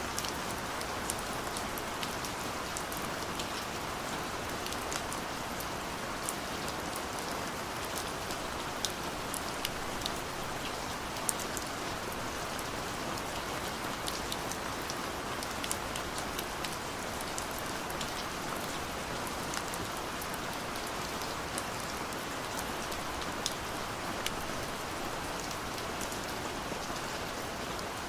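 Steady rain falling, a constant hiss with many separate drops ticking throughout.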